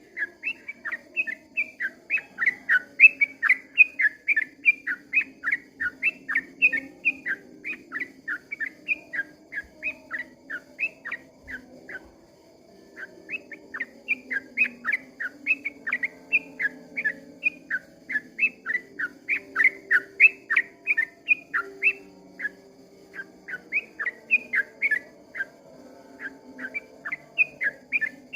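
Yellow-vented bulbul (trucukan) singing a long, fast run of short whistled notes, about four a second, broken once by a pause of about a second near the middle.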